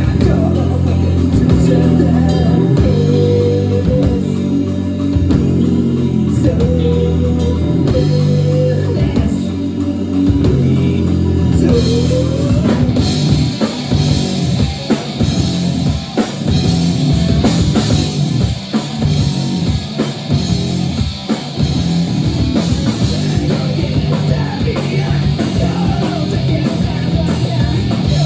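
Rock band playing live: electric guitars, bass and drum kit on a heavy riff. About twelve seconds in, the section changes and the cymbals come in brighter.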